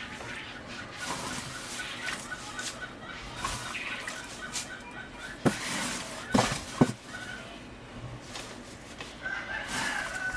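Chickens clucking, with a quick run of repeated short notes in the first few seconds and a longer drawn-out call near the end. A few sharp knocks come around the middle.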